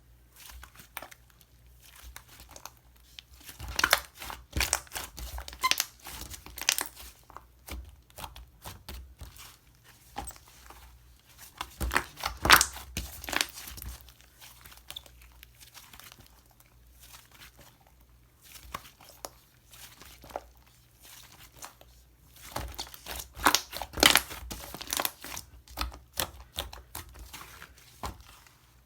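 Slime being squished and pressed by hand, giving clusters of sticky crackles, clicks and pops, with quieter stretches of soft handling between them.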